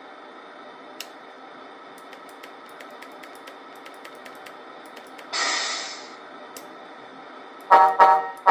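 RC truck sound unit (Tamiya MFC-03) playing a steady simulated diesel idle through its small speaker, with a sudden air-brake hiss about five seconds in that fades over a second. Near the end, loud pitched notes start in a quick rhythm.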